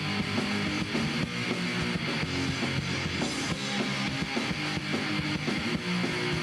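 Punk rock band playing an instrumental passage, with electric guitar chords over bass and a drum kit keeping a steady beat between sung lines.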